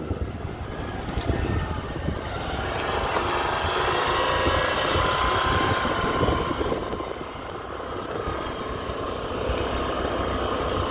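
Road noise from a moving scooter: wind rumbling on the microphone over a steady vehicle sound, with no sudden events.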